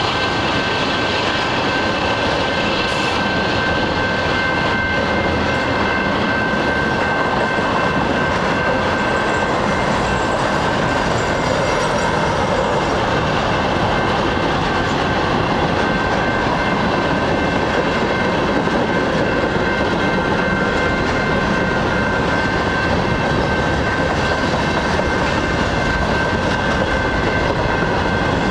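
A long freight train's cars rolling past at speed: a steady, loud rumble of steel wheels on rail, with a thin, steady high whine over it.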